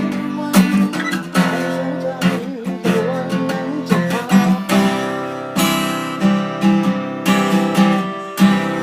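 Acoustic guitar strummed in chords, with a steady strumming rhythm; a last chord near the end is left to ring and fade.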